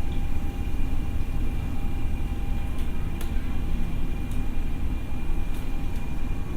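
Tokyo Metro 6000 series electric train running steadily: a continuous low rumble with a faint steady whine from the drive and a few sharp clicks.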